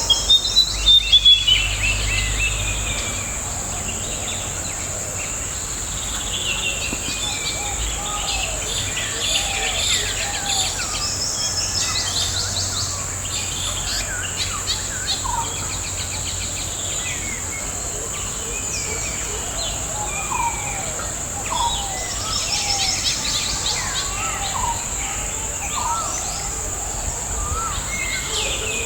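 Birds calling over a steady high-pitched insect drone. A loud falling series of chirps comes at the start, then scattered short whistled calls and a few quick rattling runs of notes.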